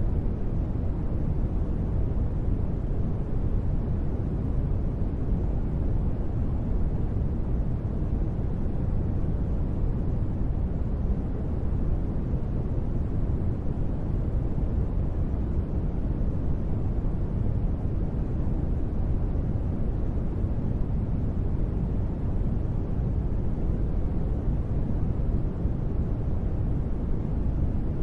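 Steady, unchanging rumbling noise of a deep-space ambience track, heavy in the bass and soft in the treble, without any tones or events.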